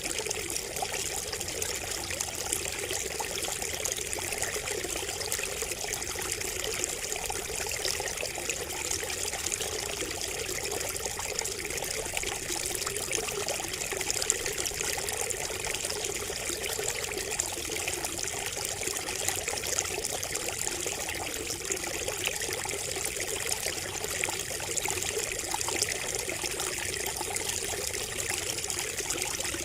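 Water trickling steadily from a bamboo spout, a continuous splashing with many small drips and plinks throughout.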